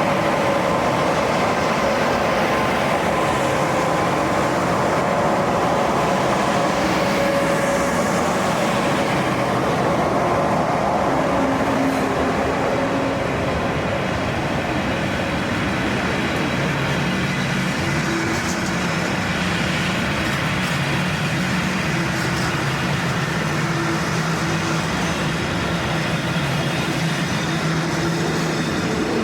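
SJ Rc6 electric locomotive and its train running steadily: wheel-on-rail noise with a steady hum of the traction motors, whose tones shift about halfway through.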